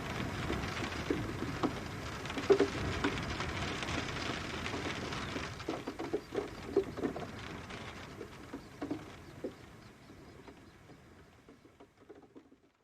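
Rain falling outside a window, a steady hiss with irregular drops tapping on a hard surface. It fades out over the last few seconds to almost nothing.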